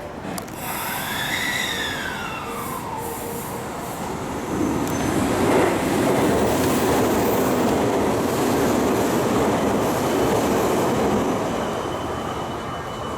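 A 315 series electric multiple unit pulling away from the platform. A whine rises and falls in pitch near the start, then the rumble of wheels on rails builds and holds for several seconds before easing off near the end.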